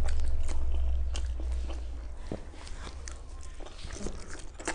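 People chewing and biting into steamed momo dumplings, with small wet mouth clicks scattered throughout. A low rumble is loudest at the start and fades over the first two seconds.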